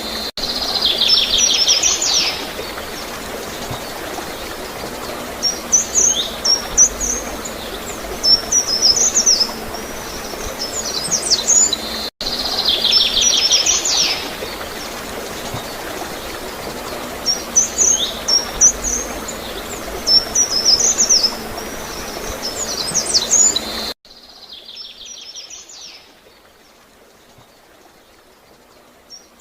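Small birds chirping and calling in quick bright bursts over a steady rush of gurgling water. The same run of calls comes round again about every twelve seconds. Near the end the water sound drops away and the birds go faint.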